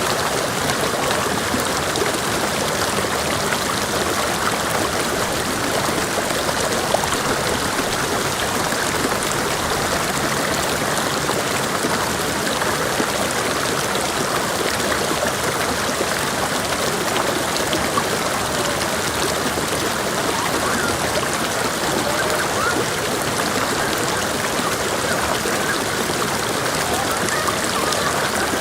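Mountain creek water rushing and burbling over rocks, a steady, even flow.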